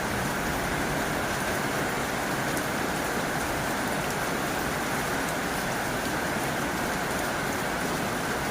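Heavy rain falling on a tin roof: a steady, dense patter with no letup.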